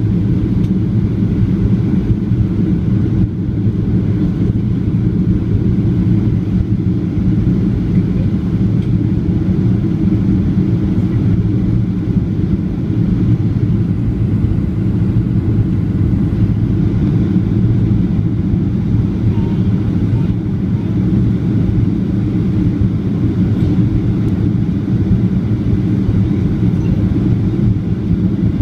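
Airliner cabin noise: a steady low rumble of the engines and air rushing past the fuselage, unchanging throughout.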